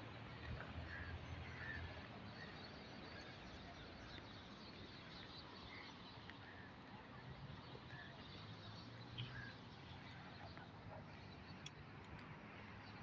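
Faint, steady background noise with an on-and-off low hum, and scattered short chirps from small birds.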